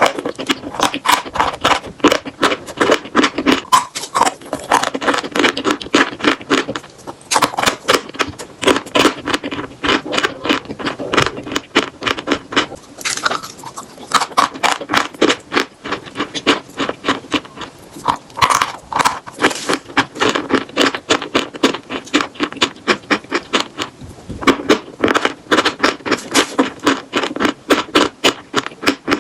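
Chalk being bitten and chewed close to the microphone: dense, crisp crunching, many cracks a second, with a few short lulls.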